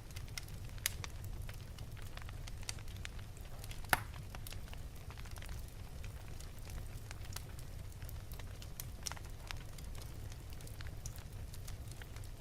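Wood fire in an open fireplace crackling: scattered sharp pops and snaps over a steady low rumble of the flames, with a louder pop about four seconds in.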